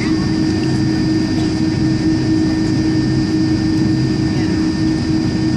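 Steady cabin drone inside an Airbus A310 on the ground after landing: a low rumble of the engines and air systems with a steady hum and a thin high whine, with faint passenger voices.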